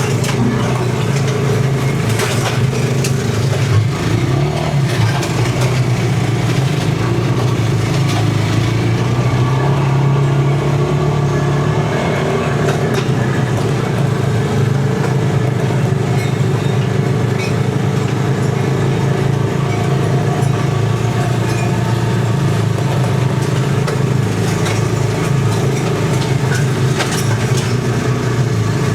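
Tow-behind flail mower running steadily at work, its 13.5 HP Briggs & Stratton four-stroke engine holding a constant, even drone.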